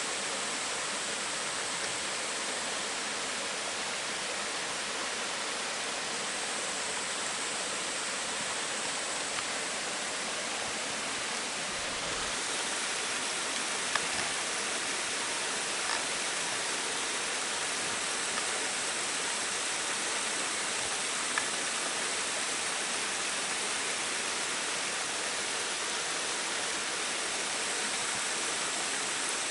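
Mountain stream water rushing steadily over rocks, with a few faint ticks.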